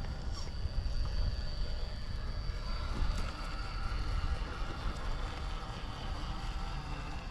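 Electric motor of an RC rock crawler whining steadily as the truck crawls, with a low rumble of wind on the microphone.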